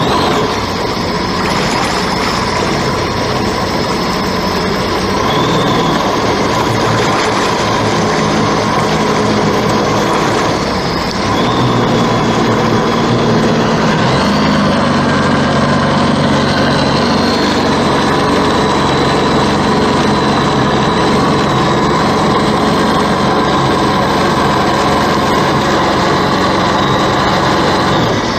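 Jet ski engines running steadily while towing a heavy load through the water. They get louder about eleven seconds in and change pitch a few seconds later as the throttle is opened.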